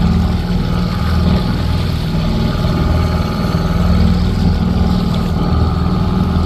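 Parsun 2.6 hp two-stroke outboard motor running steadily under way, pushing a kayak along.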